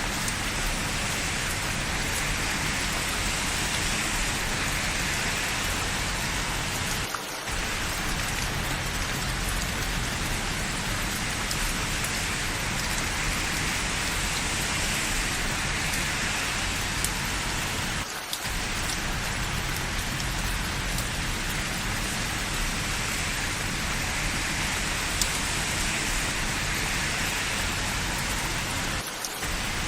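Steady rain falling, an even hiss of many drops, broken by three brief dips about eleven seconds apart.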